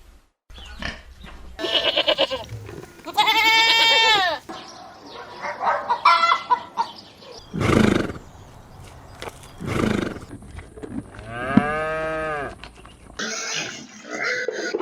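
Goats bleating: a string of separate calls, several of them long and wavering, rising then falling in pitch, with abrupt changes between short clips.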